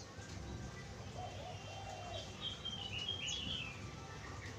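Spotted dove cooing faintly, with a small bird chirping a quick run of notes that step downward in the middle.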